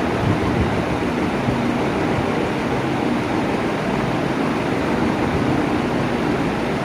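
Electric fan running at a steady speed: an even rush of moving air with a low hum, unchanging throughout.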